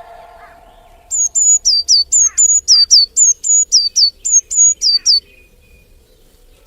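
A small bird chirping rapidly: high, sharp notes that slur downward, given in quick pairs at about four a second for about four seconds, starting about a second in.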